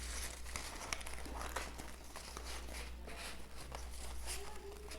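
Strips of coloured paper rustling and crinkling faintly as they are slid and bent into shape by hand, with scattered light ticks of handling.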